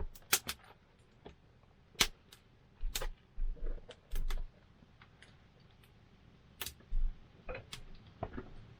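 Wood campfire crackling, with sharp pops coming at irregular intervals. A few short, low thumps come in the middle and near the end.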